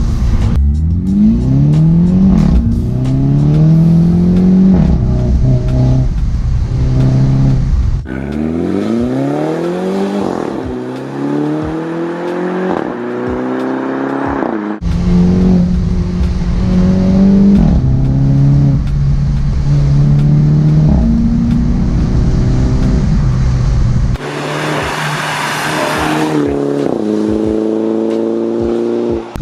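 Mini Cooper S's turbocharged four-cylinder engine, breathing through a Remus cat-back exhaust, accelerating hard: the note rises through the revs and drops back at each gear change, over and over. A short rush of noise comes about three-quarters of the way through.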